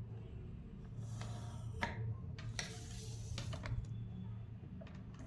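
Pencil drawn across folded paper in two scratchy strokes, each about a second long, marking a line from the centre crease to the tip.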